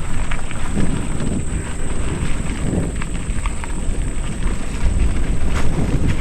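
Wind buffeting the microphone of a helmet-mounted action camera during a mountain bike ride, over a steady rumble of tyres on a dirt trail, with scattered small clicks and rattles from the bike.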